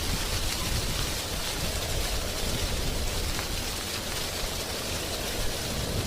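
Wind blowing through drying tree leaves: a steady rustling hiss over a low rumble, with faint scattered ticks.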